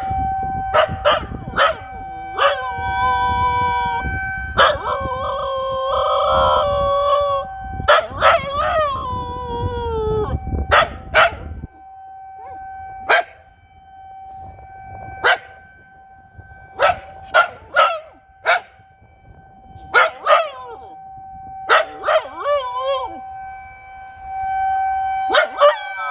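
A husky mix howling along with an outdoor tornado warning siren. The siren holds one steady pitch throughout, while the dog's long, wavering howls rise and fall over it, broken by many short, sharp yips.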